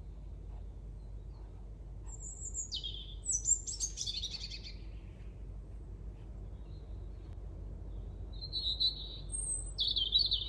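Birds chirping and singing: two bursts of short, high calls, about two seconds in and again near the end, over a low steady hum.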